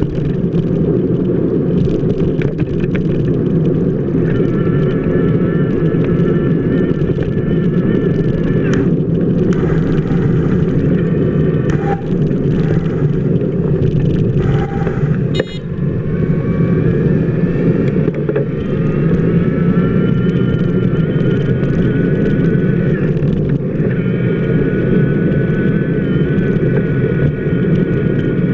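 Steady rumble of a bicycle wheel rolling over wet pavement, picked up by a camera mounted on the wheel hub. A high, wavering whine comes and goes over the rumble.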